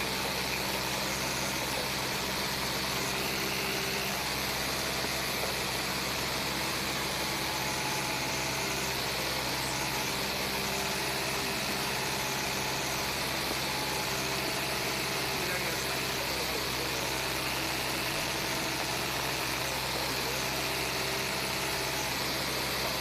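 Light airplane's engine and propeller running steadily in flight, heard from inside the cockpit as an even drone with constant rushing noise.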